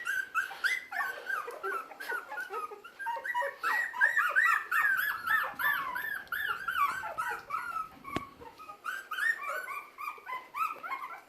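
Five-week-old Havanese puppies whimpering and squealing: a fast, overlapping run of short high-pitched cries, busiest from about four to seven seconds in. A single sharp click comes a little after eight seconds.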